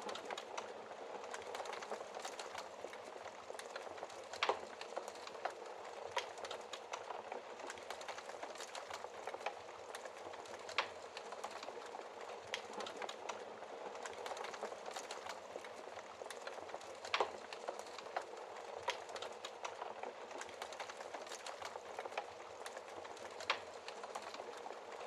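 Wood fire burning in a fireplace: a steady hiss with scattered crackles and a few sharper pops.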